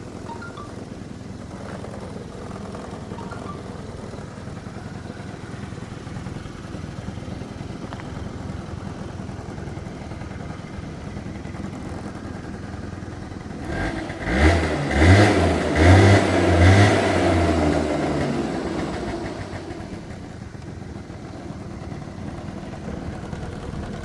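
Honda Julio's 50cc two-stroke scooter engine idling steadily, then blipped sharply about four times in quick succession a little past halfway before it drops back to idle.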